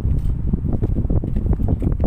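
Strong wind buffeting the microphone, a loud, uneven low rumble of noise.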